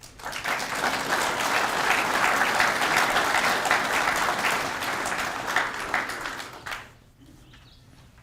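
Audience applauding for about seven seconds, stopping fairly abruptly near the end.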